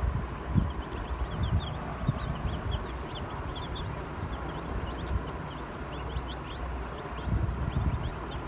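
White bantam chicks peeping: many short, high cheeps overlapping in a continuous chatter, over low rumbling noise with occasional thuds.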